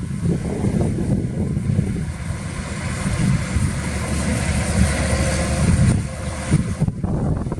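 Heavy diesel earthmoving machinery running under load with a deep engine rumble. A rushing, grinding noise builds about halfway through and stops abruptly about a second before the end.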